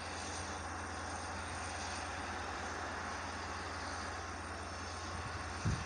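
Long Island Rail Road diesel train pulling out, heard at a distance as a steady low drone of the locomotive engine with rolling rail noise. A brief low thump comes near the end.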